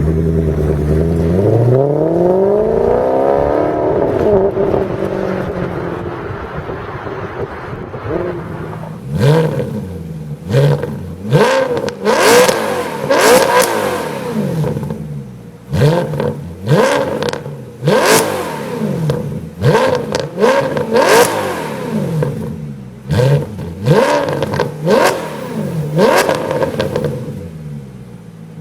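High-performance car engine revved with no words over it: first one long rev that rises and falls back, then a quick series of sharp throttle blips, a dozen or more, each jumping up in pitch and dropping away.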